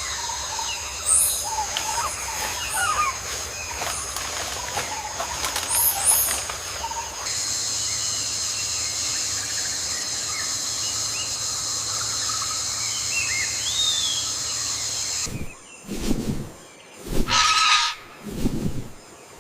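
Rainforest ambience: a steady, high-pitched insect drone with scattered bird chirps and short whistled calls. About four seconds before the end the drone cuts off, and louder irregular bursts and one harsh animal call take over.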